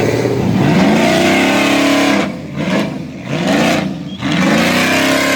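Burnout truck engine revved hard in about four repeated pulls, its pitch climbing and dropping each time over a hiss of noise. The sound cuts off suddenly at the end.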